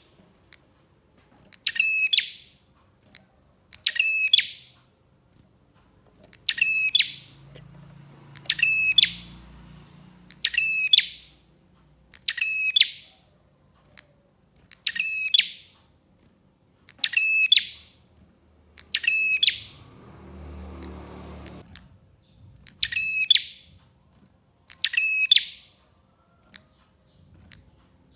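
A prenjak, a small Indonesian warbler, calling the same short, sharp phrase over and over, about once every two seconds. A faint low rumble comes in about two-thirds of the way through.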